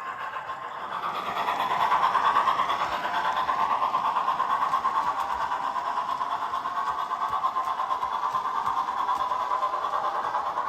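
Three-rail O gauge model of a GWR 14xx 0-4-2T tank locomotive running on track, its motor, wheels and decoder sound giving a steady running noise with a fast, even pulse. It dips briefly near the start, then builds up.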